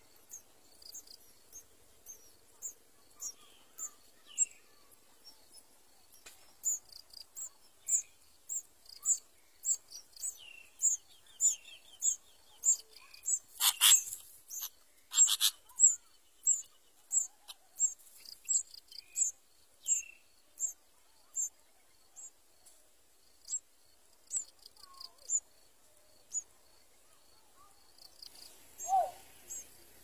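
Small birds chirping: a long run of short, high chirps at a steady pace of about one and a half a second, with two louder, harsher bursts near the middle.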